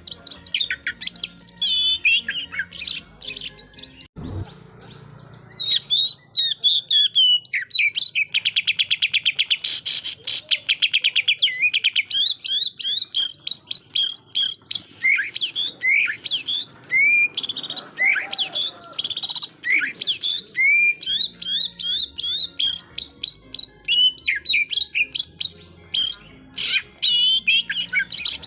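Oriental magpie-robin (kacer) singing a fast, varied song of loud whistled and chattering notes, with a short pause about four seconds in. From about eight to twelve seconds it gives a very rapid run of repeated notes. This is the rapid-fire 'tembakan' song used to provoke rival birds.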